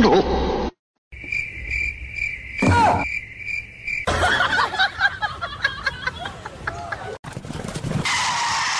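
Cricket chirping, a steady pulsing chirp for about three seconds, with a short sweeping sound partway through. It is followed after about four seconds by a busier stretch of voices and noise from a different clip.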